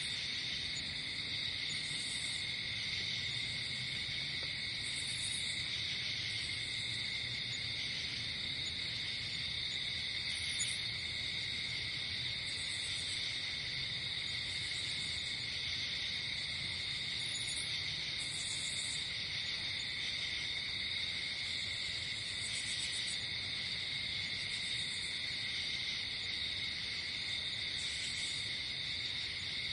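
Night insect chorus: crickets trilling in a steady, unbroken high drone, with short, higher-pitched chirps breaking in every second or two.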